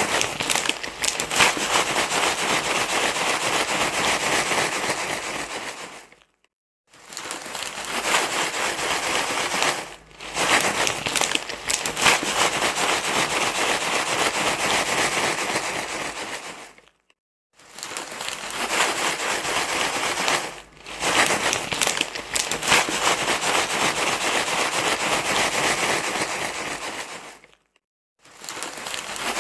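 Loud, dense crinkling rustle full of fine crackles, like something crinkly being crumpled and rubbed, going in stretches of several seconds. It breaks off into brief silences about six and a half, seventeen and twenty-eight seconds in, with shorter dips near ten and twenty-one seconds.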